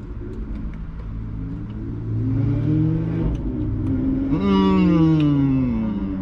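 A car engine accelerating close by, its pitch rising and then falling away, over a steady low rumble.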